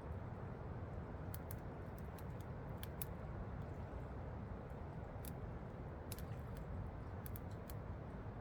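Campfire crackling, with sharp irregular pops and snaps, over the steady rush of a waterfall.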